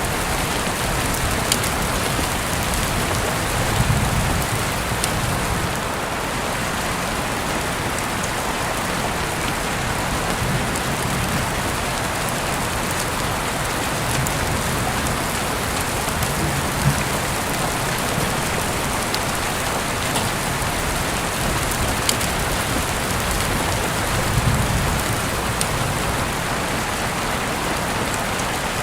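Heavy rain falling steadily, a dense even hiss with scattered sharper drop ticks and a few brief low swells, heard through an open window.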